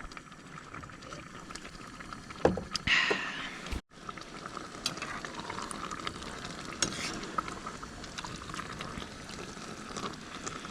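One-pot spaghetti in tomato sauce bubbling steadily in a pot on a propane camp burner. A knock and a brief scrape come about two and a half seconds in, and the sound cuts out for an instant just before four seconds.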